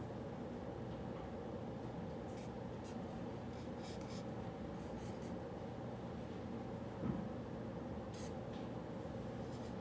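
Handwriting on paper: short scratchy strokes in small bursts, over a steady room hum. One soft bump about seven seconds in.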